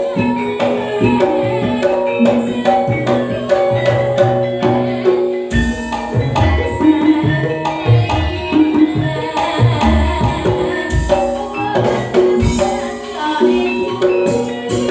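Campursari music played live: hand drums keep a rhythm under ringing pitched metal notes, with deeper drum strokes coming in strongly about halfway through.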